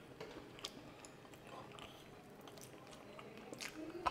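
A person chewing food close to the microphone, with a few short mouth clicks and smacks.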